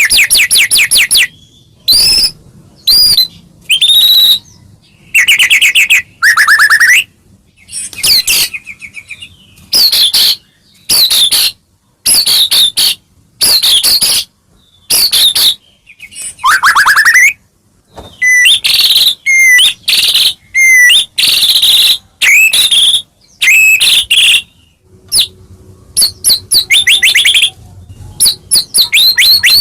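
White-rumped shama (murai batu) singing loudly and without letup, a quick string of short phrases of clear whistles, swooping glides and rapid trills with brief pauses between them.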